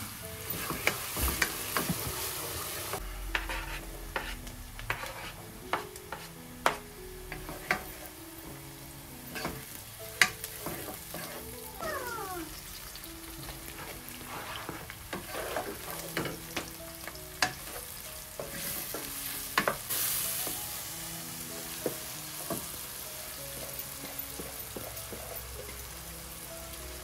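Food frying and sizzling in a pan while it is stirred, with a utensil knocking and clicking against the pan many times. Soft background music with held notes plays underneath.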